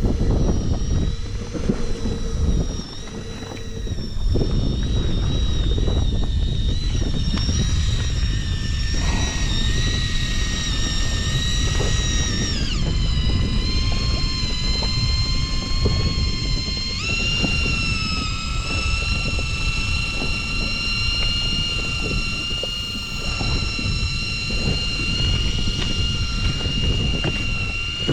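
Small 2 hp Tohatsu outboard motor on an inflatable boat running steadily with a whining drone over wind and water noise. Its pitch drops as it is throttled back about twelve seconds in, then rises again a few seconds later.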